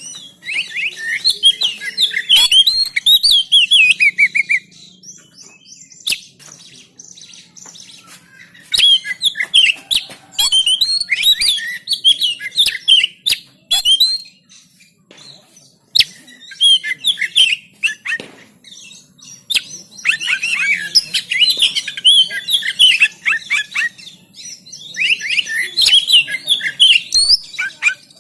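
Oriental magpie-robin (kacer) singing in loud bouts of rapid, varied chirps and whistled notes, five bouts with short pauses between them. Scattered sharp clicks fall in the gaps.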